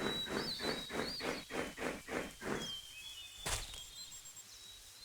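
Rhinoceros call: a rapid run of short pulsed sounds, about four a second, stopping under three seconds in. A single sharp click follows, with faint high chirps behind.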